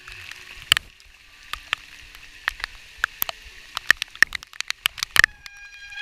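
Rain falling in a steady hiss, with many irregular sharp taps of drops landing close by.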